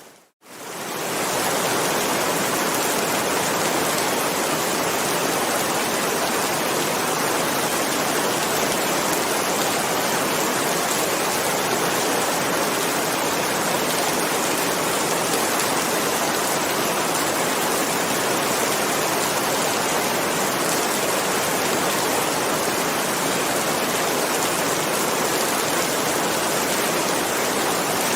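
Steady heavy rain: an even, dense hiss with no single drops or thunder standing out. It starts from a brief moment of silence and fades in over the first second or so.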